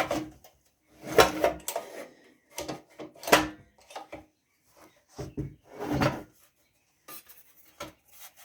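Metal engine parts clinking and knocking as a part is fitted onto a small tiller engine during reassembly. Irregular clunks and rattles, the loudest about a second in, at about three and a half seconds and at about six seconds, then a few faint ticks.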